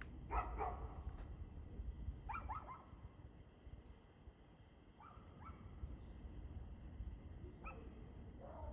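A dog barking in short bursts, four times and often two barks close together, then a longer call falling in pitch near the end.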